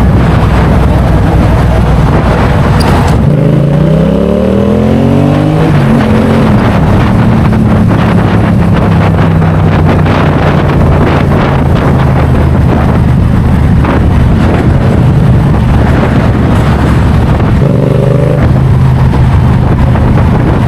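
Motorcycle engine running at speed under heavy wind rush. It accelerates with a rising pitch about four seconds in, and rises again briefly near the end.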